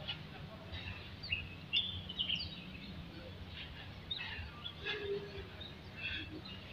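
Small birds chirping in short, high, scattered calls over steady low background noise.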